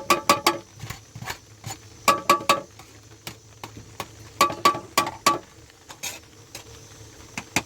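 Metal kitchenware clinking: quick runs of sharp strikes that ring briefly, like a utensil knocking against a pot or dish, in three bursts about two seconds apart.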